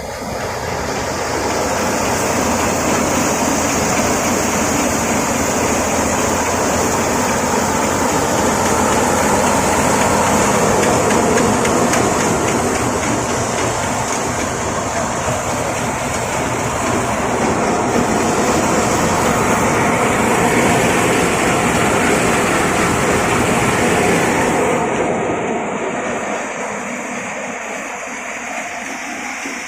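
A machine running steadily with a loud, dense mechanical noise and a fast low pulse. It builds over the first couple of seconds and eases a little near the end.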